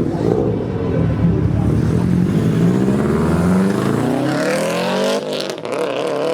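Car with a catless, resonator-less Tomei titanium exhaust accelerating. The engine note climbs steadily, breaks briefly about five seconds in, then climbs again.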